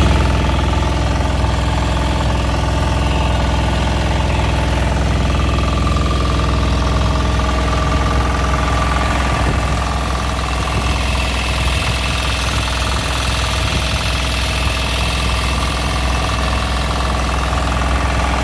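Boat engine running steadily at a constant pitch, with a faint high whine above it.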